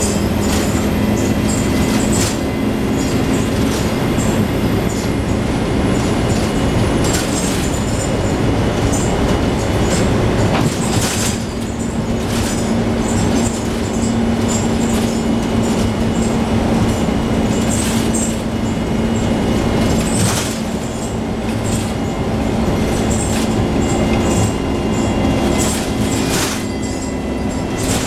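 Interior of a Scania N113 double-decker bus on the move: the rear diesel engine and driveline give a steady hum, with frequent rattles and clicks from the body and fittings as it rides over the road.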